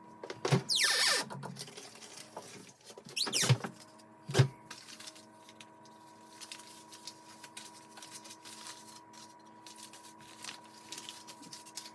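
Kitchen handling noises as cold butter is fetched from the fridge: a few knocks and rustles in the first four seconds, the loudest a sharp knock about four seconds in. After that there is a faint steady hum with light ticks.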